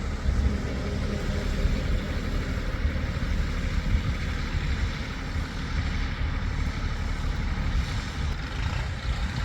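Diesel engine of heavy farm or earthmoving machinery running steadily, mostly low in pitch.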